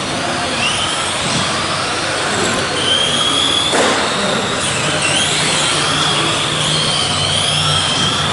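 Several electric RC Euro trucks racing: high-pitched motor and gear whines rising and falling as they speed up and brake, over tyre hiss. A sharp knock near the middle.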